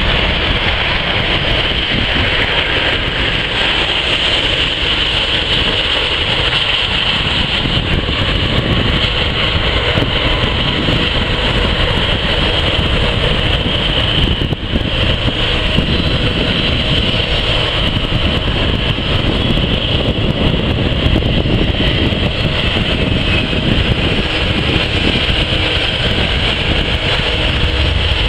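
Jet aircraft engines running with a steady, loud roar and an even high whine, dipping briefly about halfway through.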